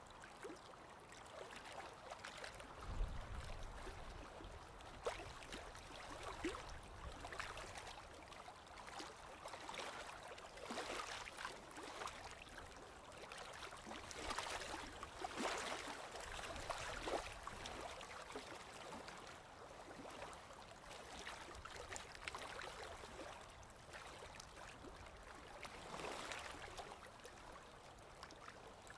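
Sea waves washing in and drawing back: a hiss of moving water that swells and fades every few seconds, with a brief low thump about three seconds in.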